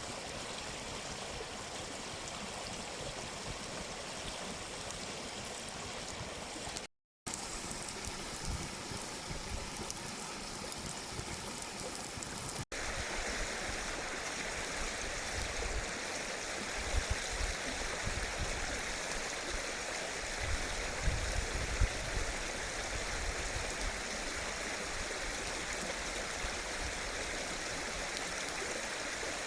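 Mountain stream rushing and gurgling steadily, with two brief dropouts in the first half and a few low bumps about two-thirds of the way through.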